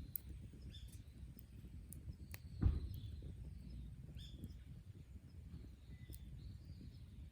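Small birds chirping now and then over a low rumble, with scattered sharp pops from a wood fire and one loud thump about two and a half seconds in.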